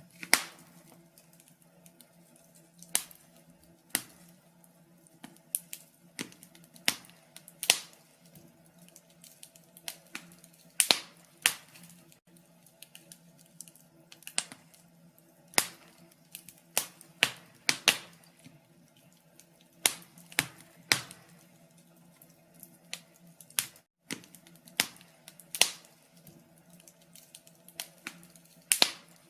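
Wood fire crackling in a fireplace: irregular sharp pops and snaps, some loud, some faint, at uneven intervals.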